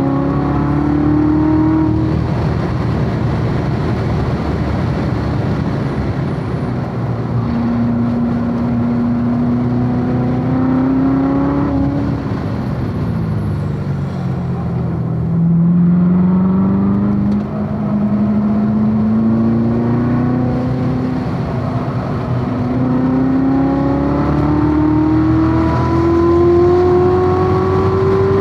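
Supercharged 6.2 L V8 of a C7 Corvette Z06 at full throttle on a race track, its pitch climbing as it accelerates. About halfway through, the pitch drops as it slows for a corner, then climbs steadily again under hard acceleration.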